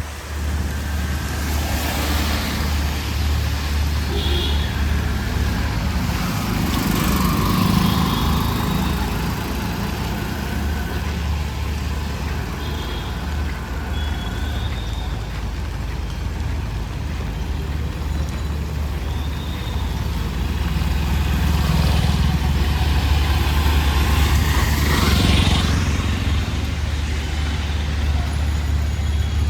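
Street traffic: motor vehicles passing over a constant low engine hum, with several louder swells as vehicles go by, the biggest near the end.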